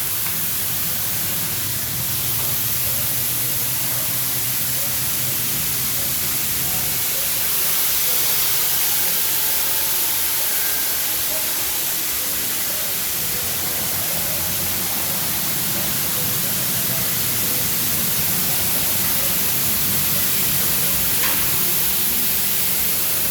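Washworld Razor touchless car wash spraying pre-soak onto the car, heard from inside the cabin: a steady hiss of spray with a low machine hum underneath.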